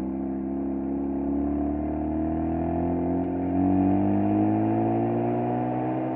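Mazda FD3S RX-7's 13B twin-rotor rotary engine heard close at its stock muffler, running under light load with its revs rising gradually, a little louder about three and a half seconds in.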